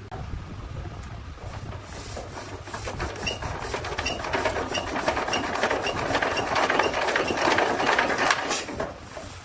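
A machine running with a fast, dense rattle that grows louder and then stops abruptly near the end.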